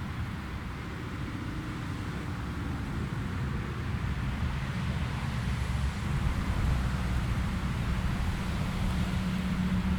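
Jet airliner's engines rumbling, growing steadily louder as the aircraft comes nearer, with a low steady hum coming in near the end.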